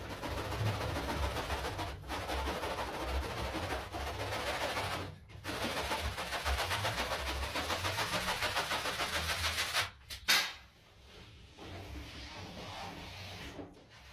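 Carpet being scrubbed: a fast, rhythmic scrubbing noise with two brief pauses, which stops about ten seconds in, followed by a single sharp click and quieter handling noise.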